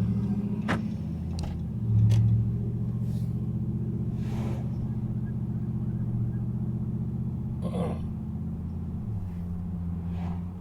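Car engine and road noise heard from inside the cabin: a steady low hum that drops in pitch about nine seconds in, with a few faint clicks near the start.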